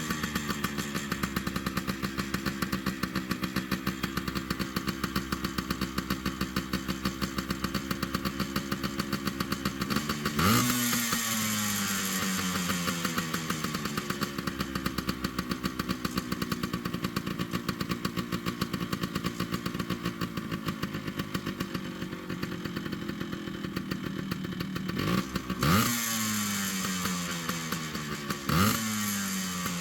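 Yamaha RT100's single-cylinder two-stroke engine idling, blipped three times (about ten seconds in, then twice near the end), the revs jumping up sharply and falling back slowly to idle each time.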